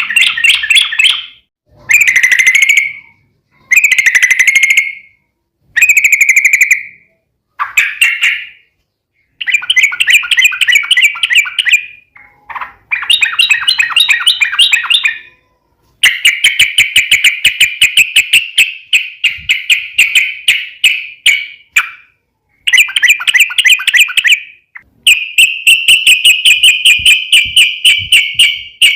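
Yellow-vented bulbul (trucukan) singing loud chattering phrases of rapid notes. Short bursts come with pauses between them at first, then long rolling runs of several seconds in the second half.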